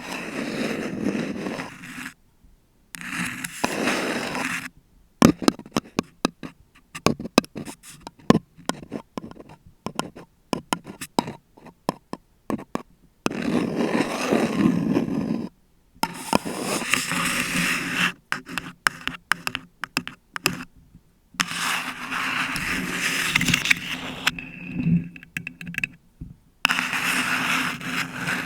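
Long acrylic nails scratching and tapping on a paper cup and on a bare condenser microphone. Stretches of steady scratching alternate with runs of quick, irregular taps, with short pauses between them.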